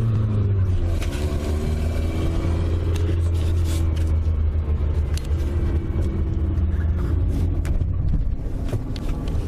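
Car engine and road noise heard from inside the cabin while driving: a steady low drone, the engine's pitch holding fairly even.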